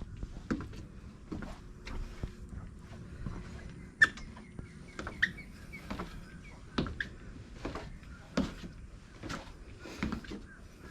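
Footsteps of someone walking, a step roughly every second, with a few brief bird chirps.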